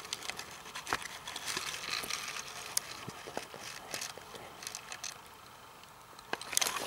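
Rustling and crackling of grass and plant stems being pushed aside and handled while picking wild strawberries, with scattered small snaps; the rustling grows louder near the end.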